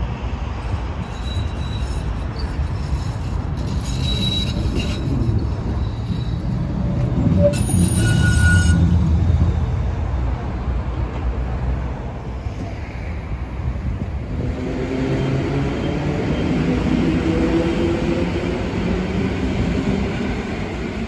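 Electric suburban train running on the rails: a steady low rumble that grows louder about eight seconds in, with thin high wheel squeals over the first few seconds.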